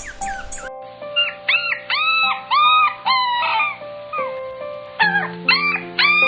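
A young animal calling in a rapid series of short, high-pitched, arched cries, starting about a second in, over background music with long held notes.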